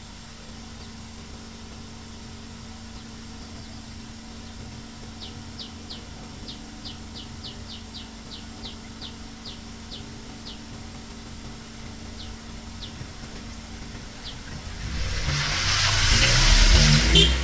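A vehicle passing close by on the street: a steady low hum, then a loud rumble that builds over the last couple of seconds. Earlier, a bird gives a series of short, falling chirps, about two a second.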